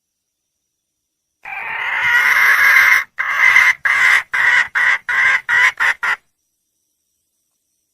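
Red junglefowl hen calling for a mate: one long drawn-out note, then a run of short notes that grow shorter and quicker before stopping abruptly.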